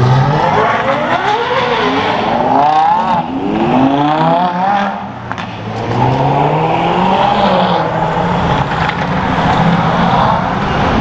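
Straight-piped Ferrari 812 Superfast's naturally aspirated V12 pulling away hard, its note climbing again and again as it runs up through the gears, with a brief dip about five seconds in, then a steadier engine drone.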